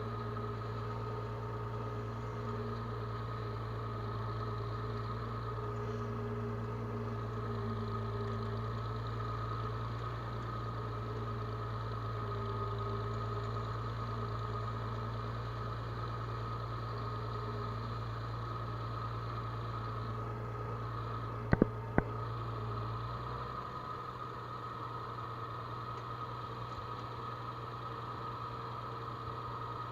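Farm machinery engine running steadily with a low drone and a steady higher whine. Two sharp clicks come close together about two-thirds of the way through, and shortly after them the deepest part of the drone drops away.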